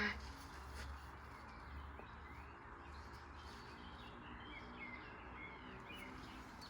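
Faint bird chirps over a low, steady hum.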